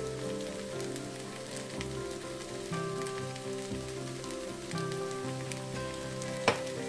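Fried rice sizzling quietly in a stainless steel pan as it is stirred with a spatula, over soft background music with notes held and changing about once a second. A single sharp click near the end.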